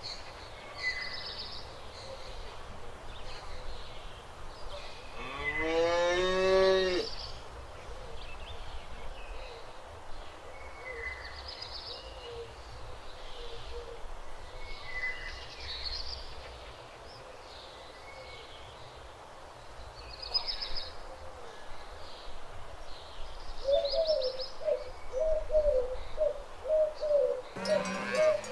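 A cow moos once, loud and rising in pitch, about five seconds in, while small birds chirp on and off throughout. Near the end a cowbell clangs about twice a second and another moo begins.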